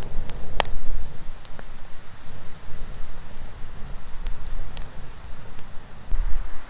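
Strong, gusty wind rumbling on the microphone over a steady hiss, with scattered sharp ticks.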